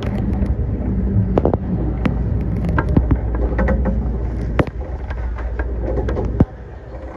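Musashino Line electric train under way, heard from inside the leading car: a steady low running rumble with sharp wheel clacks over the track. The rumble drops off abruptly about six seconds in.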